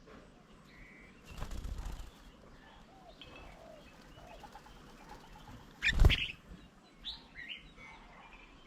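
Birds at a feeding table: a rustle of wingbeats about a second and a half in, a sudden loud flutter of wings around six seconds, then a few short calls.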